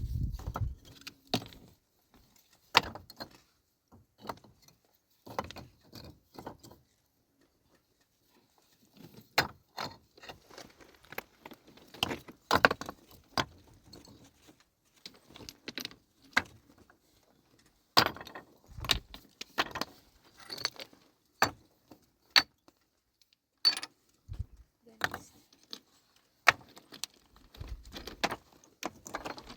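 Irregular sharp clicks and clinks of hard objects knocking together, some in quick clusters and others spaced a second or more apart.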